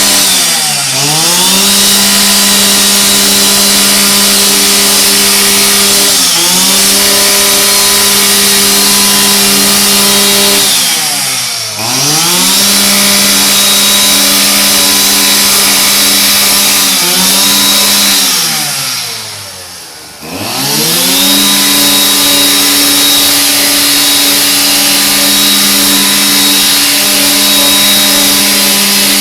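Stihl string trimmer's small petrol engine running at high revs, its pitch sliding down and climbing back as the throttle is eased off and squeezed again: long dips about a second in, near 11 seconds and near 20 seconds, and shorter ones near 6 and 17 seconds.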